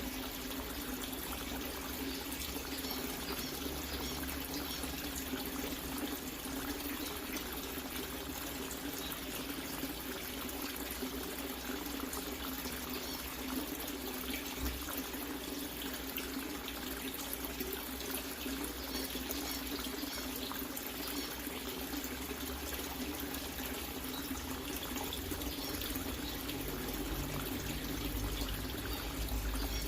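Water running steadily into a refrigerator converted into a fish tank as it is filled up.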